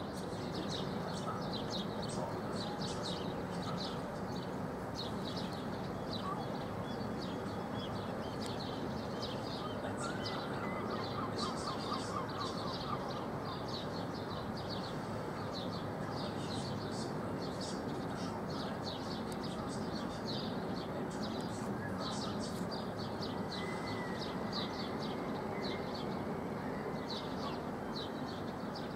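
Small birds chirping rapidly and without pause, over a steady low background rumble.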